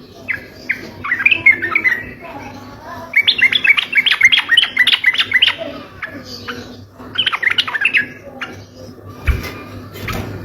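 Yellow-vented bulbul (trucuk) singing in the rapid-fire 'ropel' style: four bursts of fast, chirpy notes with short pauses between them, the kind of recording played as a lure call.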